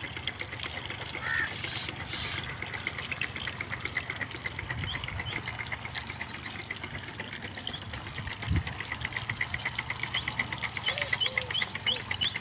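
Birds calling: a rapid, even run of high pulses, about seven a second, with short rising chirps joining in over the last couple of seconds. A single low thump comes about eight and a half seconds in, over a faint background hiss.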